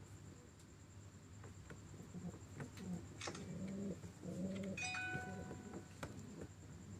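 Domestic pigeons cooing in courtship: a few low, repeated coos between about two and four and a half seconds in, with faint scattered taps and a brief higher chirp about five seconds in.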